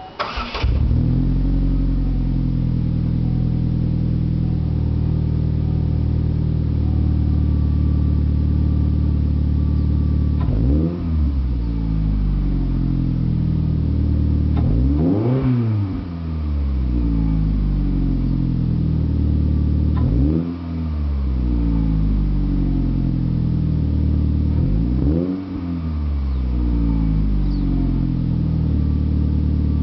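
Saturn Sky's engine breathing through a SOLO aftermarket exhaust: it starts right at the beginning, settles into a steady idle, and then takes four short throttle blips, each rising and falling back to idle, about five seconds apart.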